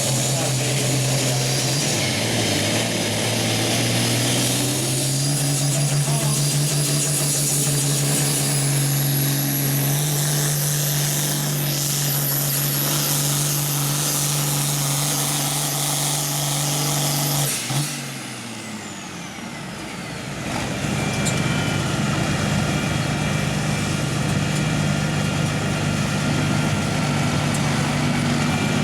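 A pulling tractor's diesel engine runs at full throttle down the track, its pitch climbing in steps over the first few seconds and then holding steady with a high whistle over it. About two-thirds of the way through it cuts off sharply, and after a short lull it runs steadily at low revs.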